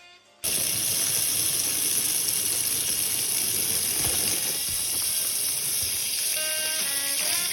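Water running steadily from a tap, starting suddenly about half a second in.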